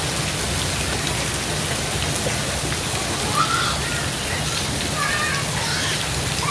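Steady rain falling, a constant even hiss of drops hitting the ground, with a few short high sounds over it in the second half.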